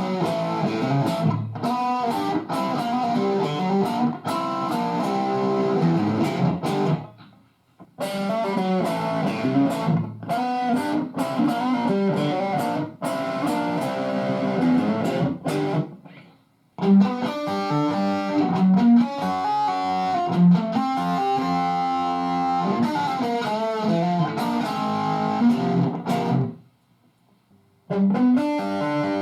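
Electric guitar played through a Marshall DSL5 5-watt valve combo on full-gain distortion: played in phrases of several seconds, each cut off by a brief silence.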